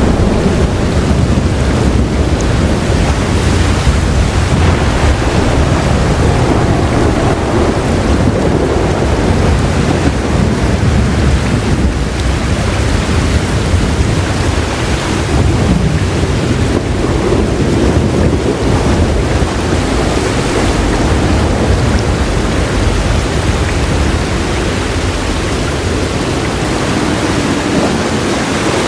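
Heavy rain pouring steadily with a low, rolling thunder rumble underneath; the rumble eases off somewhat near the end.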